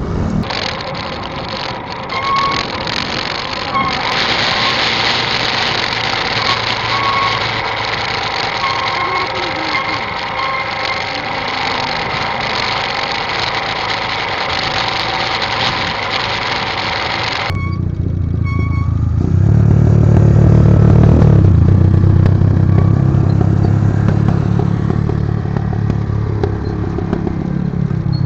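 Motorcycle on the move: steady wind and road noise with a faint whine. About two-thirds through, this changes abruptly to a lower engine hum that swells for a couple of seconds and then eases.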